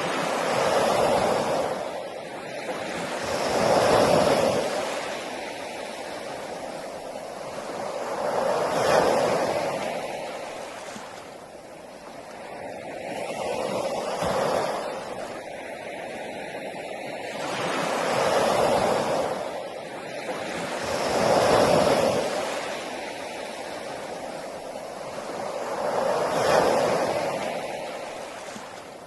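Sea waves breaking on a beach, the surf swelling and falling away about every four to five seconds.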